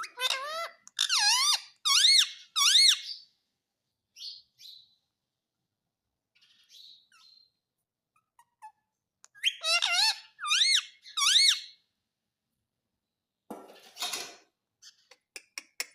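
Pet ring-necked parakeet giving two bursts of three shrill calls, each swooping up and down in pitch, the bursts about nine seconds apart. Near the end comes a short rustle with a few clicks.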